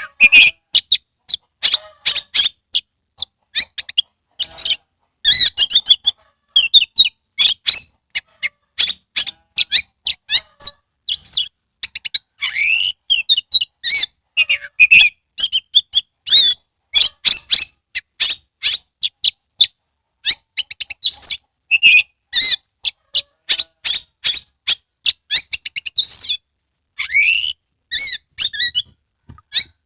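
Oriental magpie-robin in full song: a rapid, varied stream of sharp chirps, whistled slurs and clicking notes, delivered in short phrases with brief pauses.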